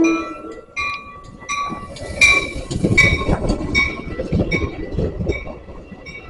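Metra commuter train rolling into the station, its wheels clattering and rumbling over the rails, with a bell ringing at a steady beat.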